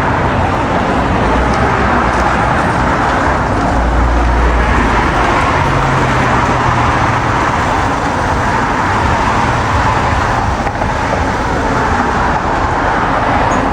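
Steady road traffic noise, with the low rumble of vehicles swelling for a second or so about four seconds in.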